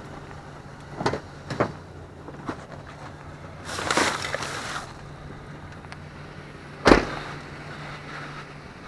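Rummaging through dumpster contents: scattered light knocks, a brief rustle about four seconds in, and one sharp bang near the end, over a steady low hum.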